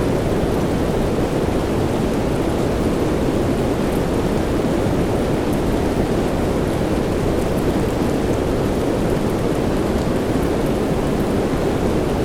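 Steady soft rain as a sleep noise track: an even, deep rushing hiss that does not change or break.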